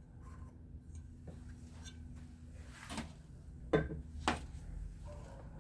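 A few short knocks and clacks of fan-motor parts being handled and set down on a workbench, three in quick succession past the middle, the second the loudest, over a low hum.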